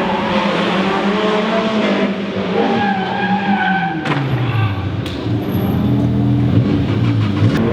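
Rally car on a special stage: the engine's revs fall as the car slows and the tyres squeal, then it pulls at low revs with a few sharp cracks.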